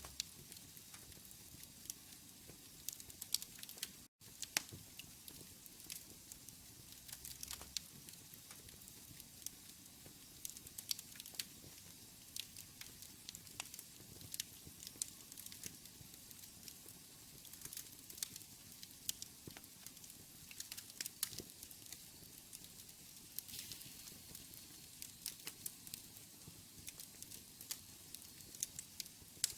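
Wood fire burning in a fireplace: steady low hiss with many irregular sharp crackles and pops throughout. The sound drops out completely for an instant about four seconds in.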